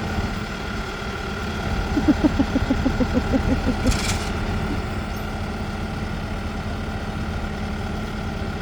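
Farm machine's engine idling steadily. About two seconds in, a quick run of pitched pulses, roughly six a second, lasts for about two seconds, followed by a single sharp click.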